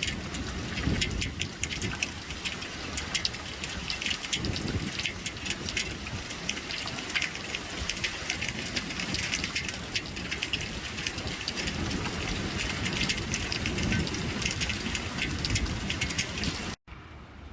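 Hail falling, with hailstones striking hard surfaces in a dense stream of sharp ticks over a steady hiss. It cuts off abruptly near the end, giving way to a quieter hiss.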